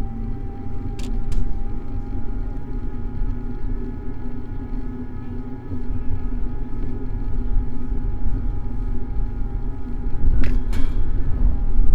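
Low, steady rumble of road and wind noise on a bicycle-mounted camera during a city ride, with a faint steady hum above it. Two pairs of sharp clicks come about a second in and again near the end.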